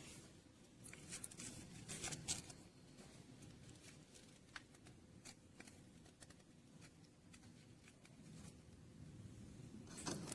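Faint rustling and scattered small clicks of objects being handled, busiest in the first couple of seconds.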